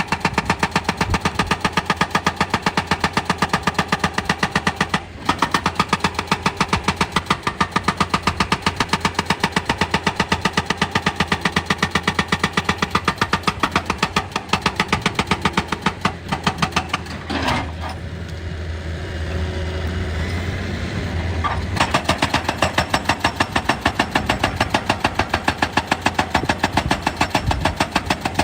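Excavator-mounted hydraulic rock breaker hammering on stone in a rapid, even stream of blows, over the excavator's diesel engine. About two thirds of the way through, the hammering stops for roughly four seconds while the engine runs on with a steady low sound, then the hammering starts again.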